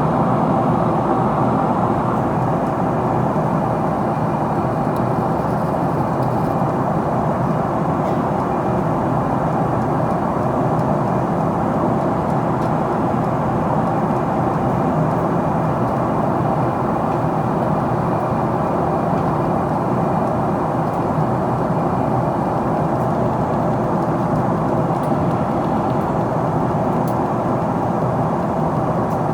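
Steady cabin noise inside a Boeing 777-300ER in descent: a constant rush of airflow over the fuselage mixed with the hum of its GE90 engines, with a faint steady whine above it.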